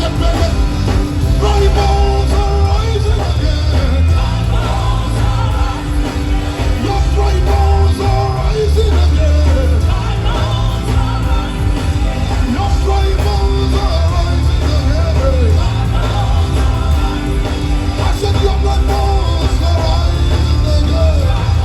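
Live gospel worship music: a band with heavy, steady bass and sung vocals, played loud.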